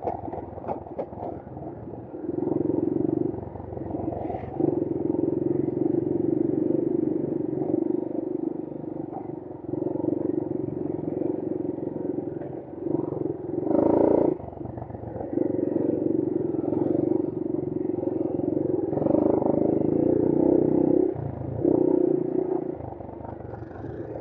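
Brozz 250's engine running while ridden, its note held steady for stretches and dropping briefly every few seconds as the throttle is eased. There is one short, louder surge about halfway through.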